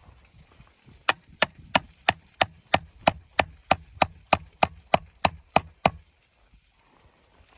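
Knife chopping on a wooden cutting board: about sixteen quick, even strokes, roughly three a second, stopping a couple of seconds before the end.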